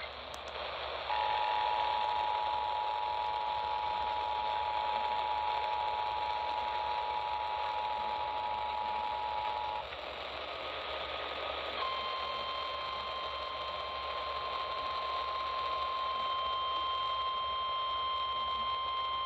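Emergency Alert System tones received over a radio with static hiss. First comes the two-tone attention signal, held for about nine seconds. After a brief pause, the steady single-pitch weather radio warning alarm tone starts and holds. Together they herald a flash flood warning.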